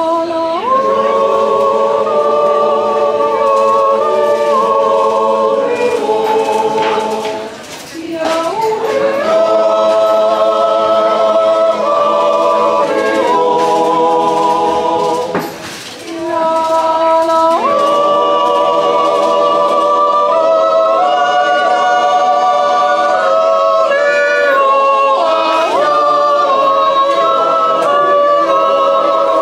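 Swiss yodel choir singing a cappella in sustained multi-part harmony. The long held phrases break twice for a short breath, and each new phrase swoops up into the next chord.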